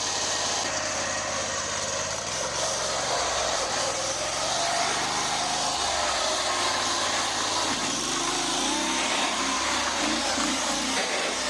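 Predator 670 V-twin engine in a small homemade truck running under throttle, its pitch rising and falling as the driver goes through the gears.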